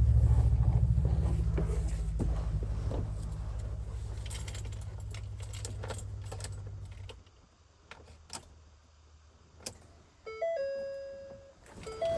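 Electric fuel lift pump of a 6.7 L Power Stroke diesel running with the key on, priming the fuel system after repairs: a steady low hum that fades and stops about seven seconds in. A few clicks follow, then the truck's electronic dashboard chime sounds twice near the end.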